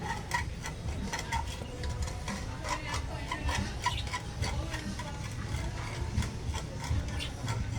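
Irregular light clicks and taps of small repair tools handling tiny earbud parts, over a steady low hum.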